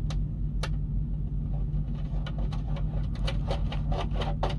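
Semi-truck's diesel engine idling with a steady low hum, heard inside the cab. Over it come scattered light clicks and taps.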